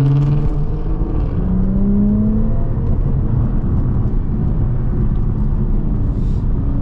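Car engine running with heavy low road rumble, heard from inside a moving car; the engine note climbs about one to two seconds in, then settles back into the steady drone.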